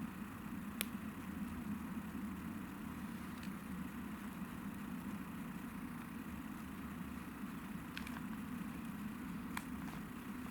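Wood campfire burning with a steady low rumble, popping sharply four times.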